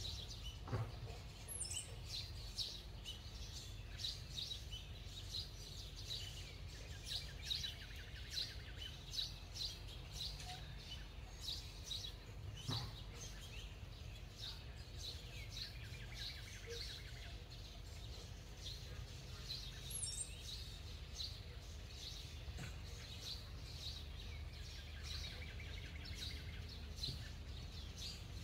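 Small birds chirping, short high calls repeated a few times a second, with a falling trill about every nine seconds, over a steady low background rumble.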